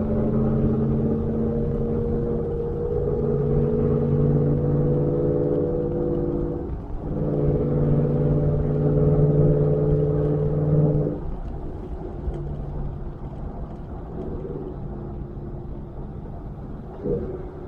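2019 Ford F-150 pickup with a Borla ATAK exhaust running under steady throttle, a low, even exhaust note. The note drops out briefly about seven seconds in and picks up again. Just past halfway it eases to a quieter, lighter-load drone.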